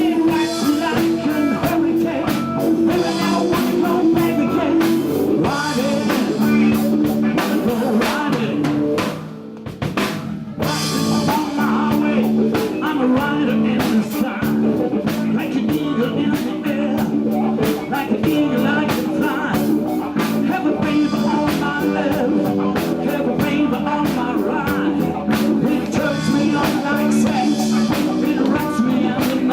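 Live blues-rock band playing, with electric guitar and drum kit, breaking off briefly about nine seconds in before coming straight back in.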